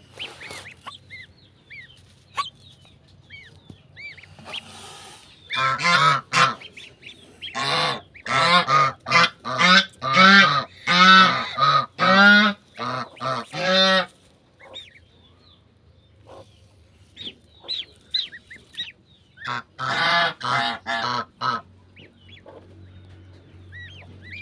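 Mother goose honking in three bouts of rapid, loud honks, the longest about six seconds, with faint high peeping of goslings in the quieter gaps between.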